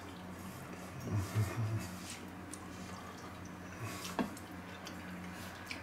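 Soft chewing and mouth sounds of a man eating stew meat, with one sharp click about four seconds in, over a steady low electrical hum.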